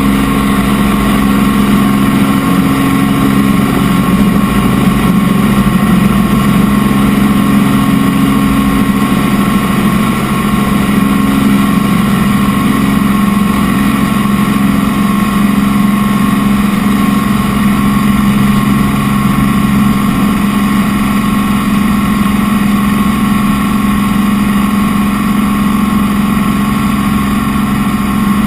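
Helicopter in steady flight: a constant, loud engine and rotor drone with several steady tones that do not change pitch.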